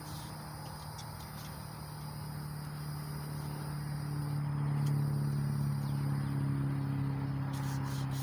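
A steady low engine hum that grows louder over the first few seconds and then holds, with insects chirping faintly and high above it.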